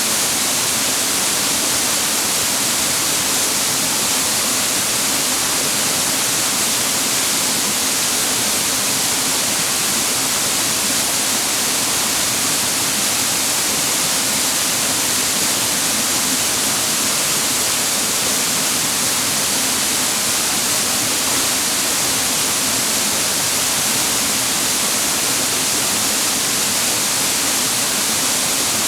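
Waterfall pouring steadily: an even, unbroken rush of water that holds the same level throughout.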